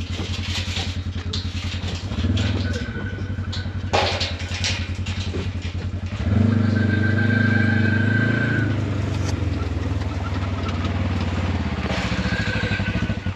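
Polaris General 1000 side-by-side's parallel-twin engine running under way on a trail with a steady pulsing throb. It grows louder for a couple of seconds about six seconds in, then settles back. A sharp knock sounds about four seconds in.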